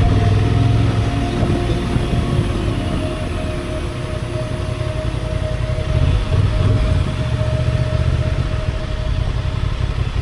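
Parallel-twin motorcycle engine running steadily at low revs.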